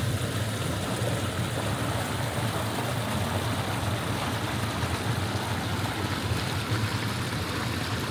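The small upper River Severn flowing along its stream bed, a steady, unbroken rush of water.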